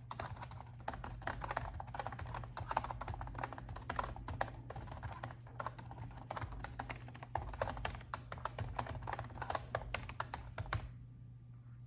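Steady typing on a laptop keyboard: a dense, irregular run of key clicks that stops about eleven seconds in.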